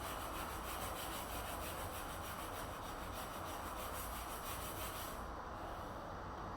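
Rapid, even rasping strokes of a hand tool working wood, like sawing or sanding, stopping about five seconds in, over a steady low background hum.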